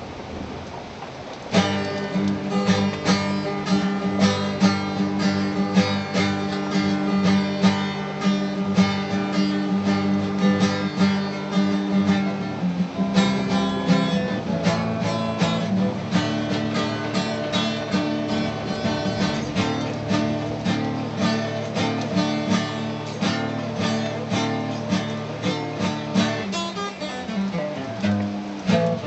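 Acoustic guitar strummed in a steady rhythm of chords, starting about a second and a half in after a faint hiss.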